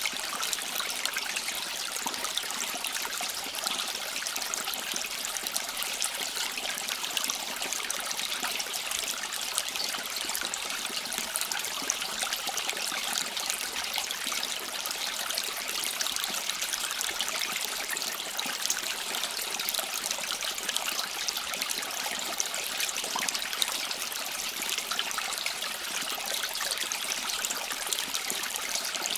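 Running water trickling and babbling steadily, as in a small stream, an even hiss with fine splashy crackle and no pauses.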